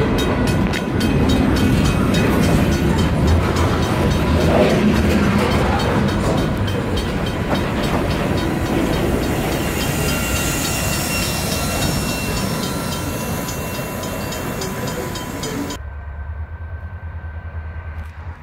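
Freight train rolling past, its wheels clicking rapidly and evenly over the rail joints over a heavy rumble that slowly fades. The sound cuts off suddenly near the end, leaving only a low hum.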